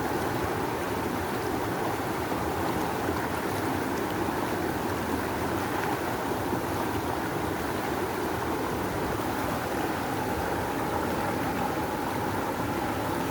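A fast, rushing river's water flowing in a steady, heavy roar of noise that holds its level throughout.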